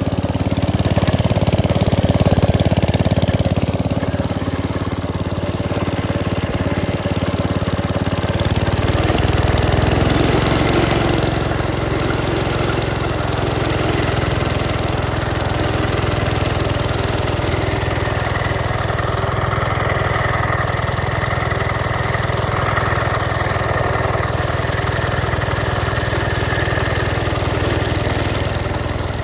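Gravely Commercial 10-A walk-behind tractor with its 'dog eater' snowblower attachment, engine running steadily. Its note shifts about nine seconds in, and a faint whine joins in during the second half.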